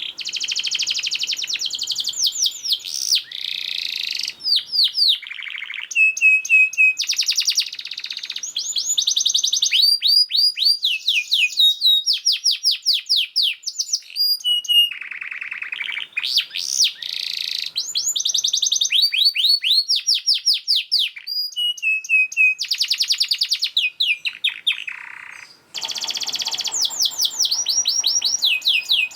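Domestic canary singing a fast, densely packed song of rapid trills and quickly repeated high sweeping notes, with one short break late on.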